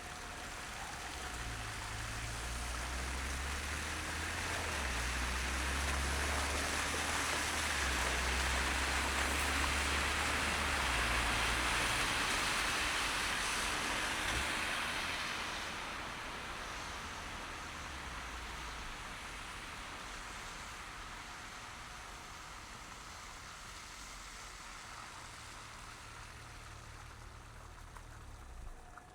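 Traffic on a snow-covered city street: a hiss of tyres on the wet, snowy road with a low rumble underneath, swelling to its loudest midway and then slowly fading.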